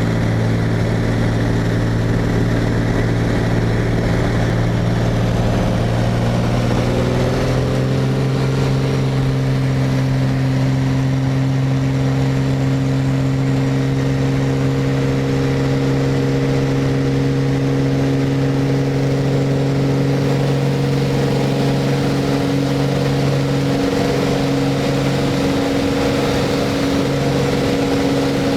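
Beechcraft Bonanza's piston engine and propeller running at takeoff power, a steady drone that rises slightly in pitch about seven seconds in and then holds.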